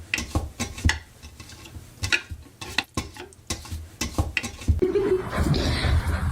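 Irregular sharp clicks and clattering knocks of hard objects, like dishes or utensils being knocked about, getting denser near the end.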